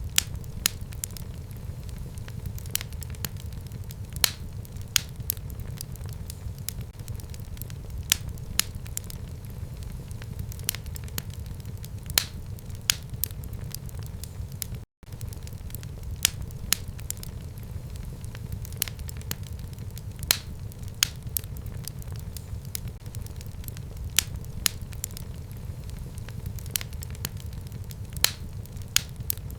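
Fire burning in a home fireplace: a steady low rumble of flame with frequent irregular sharp crackles and pops. The sound cuts out for an instant about halfway through.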